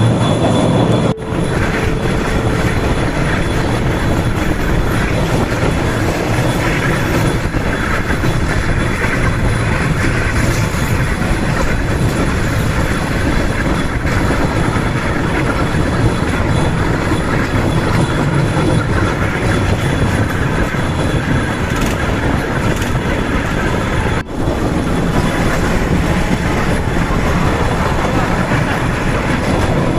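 Cambodian bamboo train (norry) running along the rails: its small petrol engine and the wheels on the track make a loud, steady noise, broken twice by a brief dip.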